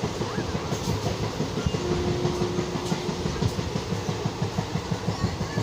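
Train running, a steady rumble with a fast, regular low thudding of several beats a second.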